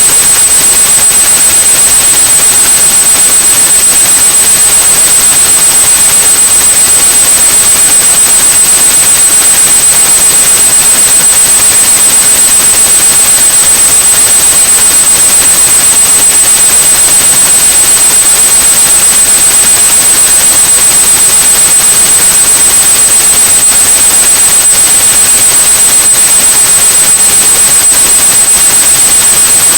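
Steady white noise with a continuous high-pitched 8100 Hz sine tone running through it, a tinnitus-masking sound.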